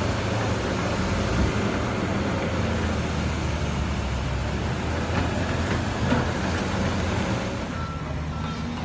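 Heavy diesel machinery running steadily, a low engine hum under a rough mechanical noise.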